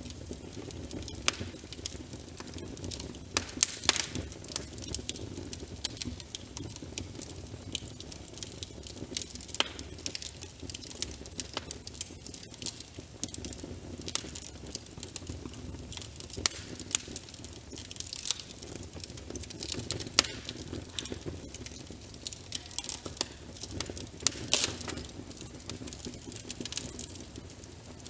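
A fireplace fire crackling, with frequent sharp, irregular pops, over a steady patter of rain on a window.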